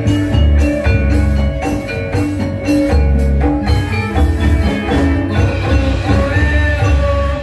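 Balinese gamelan playing live: bronze metallophones struck in quick runs of ringing notes over drums and deep, sustained gong tones.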